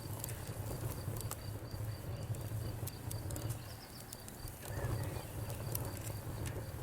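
Wood fire crackling, with sharp pops over a low rumble, and a cricket chirping in a fast, even pulse of about five chirps a second.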